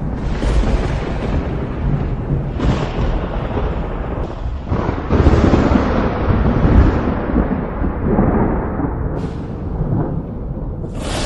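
Thunder rumbling continuously, with new cracks breaking in every few seconds; the loudest rolls come about halfway through.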